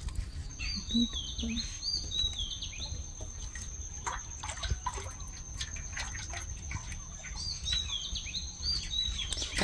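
A bird calling in two bouts of short, quick high notes, over a steady thin high whine, with scattered soft clicks.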